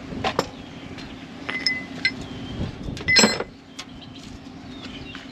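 Metal tools and parts clinking and clanking during hand work on a truck's front suspension: several light clinks, some ringing briefly, and a louder ringing clank about three seconds in, over a steady low hum.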